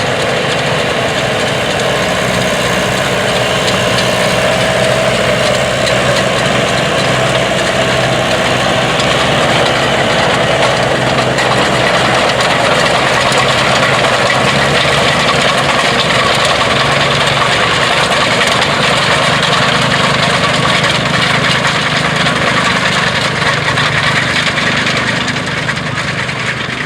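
Vintage farm machinery running steadily: tractor engines with a dense mechanical clatter, fading out near the end.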